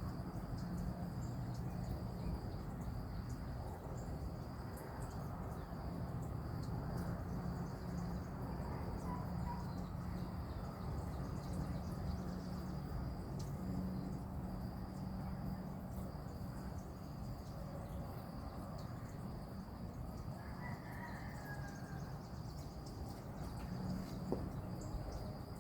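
Outdoor background of a steady, high, pulsing insect trill over a low steady hum, with a few faint bird chirps about nine and twenty-one seconds in.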